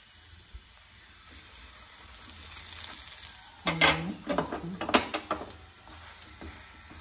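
Paratha frying in desi ghee on a tawa: a soft sizzle that grows louder. About four seconds in, a wooden spatula knocks and scrapes against the griddle several times as it presses the paratha down.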